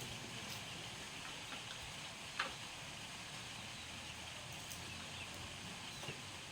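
Faint, steady outdoor background noise with a few small ticks and one brief, higher chirp about two and a half seconds in.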